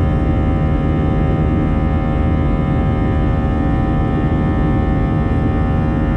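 Steady cabin noise of an Airbus A320-214 climbing after takeoff: its CFM56 turbofans running at constant power, with a steady hum of several fixed tones over the rush of air past the fuselage.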